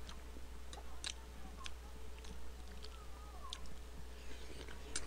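A person chewing a mouthful of food with wet mouth sounds, broken by scattered sharp clicks and smacks, over a steady low hum.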